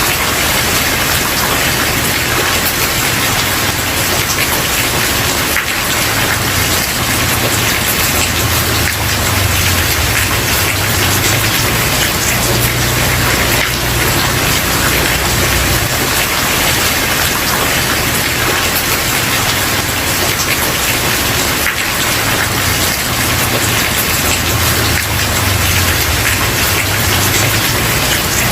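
Steady, heavy rain falling on a surface, an even dense hiss with a low rumble underneath.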